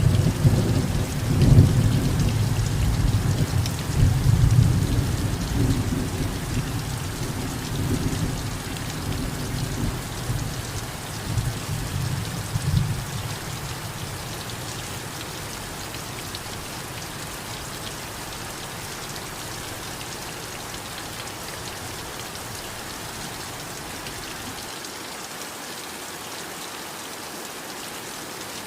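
Steady heavy rain with a long low roll of thunder that is loudest at the start and fades out about 13 seconds in, leaving only the even hiss of the rain.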